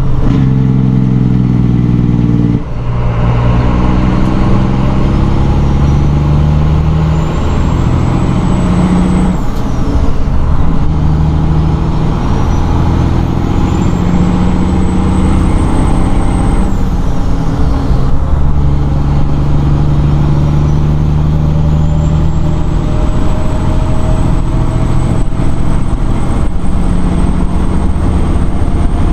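1997 Peterbilt 378's 12.7-litre Detroit diesel pulling through the gears of its 18-speed transmission: the engine note climbs, then drops at each upshift, about three times. A faint high whistle rises with the engine and falls away at each shift.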